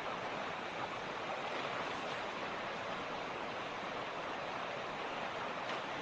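A mountain creek rushing over stones: a steady, even splashing that does not change.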